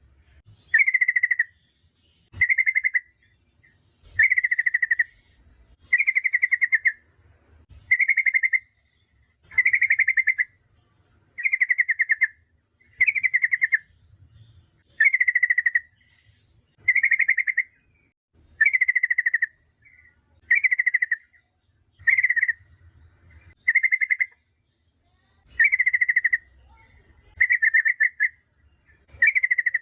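Yellow-vented bulbul (trucukan) giving a short, rattling chattering call over and over, about one call every one and a half to two seconds. It is the female's call to the male, played as a lure to set other bulbuls calling.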